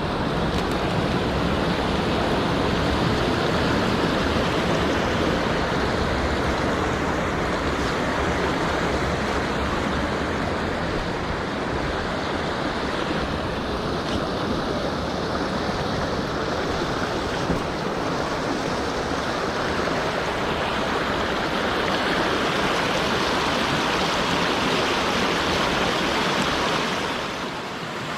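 Mountain stream water rushing steadily, a continuous loud rush that eases slightly near the end.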